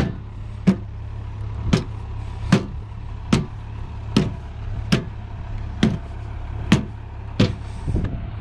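Tractor engine idling with a steady low hum, under a regular series of sharp clicks or knocks a little under a second apart.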